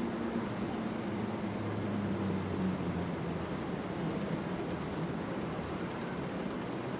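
Gusty wind on the microphone as a steady rushing noise, with a low engine hum underneath that fades out about three seconds in.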